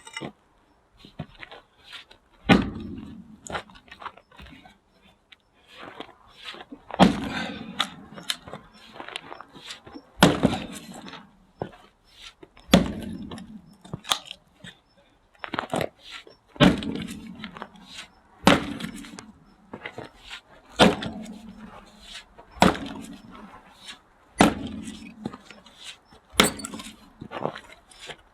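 Axe splitting firewood: about ten heavy strikes, one every two to three seconds, each a sharp crack of the blade biting and the wood splitting, with fainter knocks in between.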